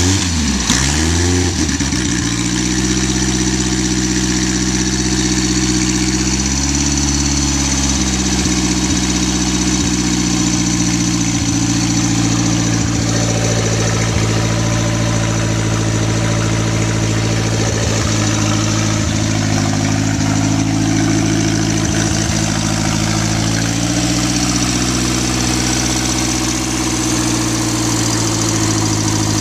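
A 1938 Indian Four's inline four-cylinder engine, just started from cold, revs briefly and settles into a steady idle within the first couple of seconds. The idle speed rises slightly about seven seconds in and again near the end.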